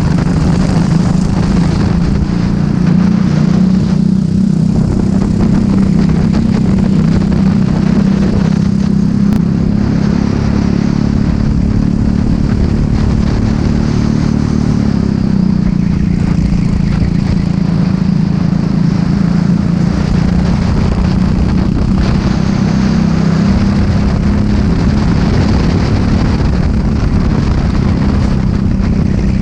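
Racing kart engine running hard at race pace. Its pitch sags about halfway through and then climbs again, over a steady rush of wind and road noise.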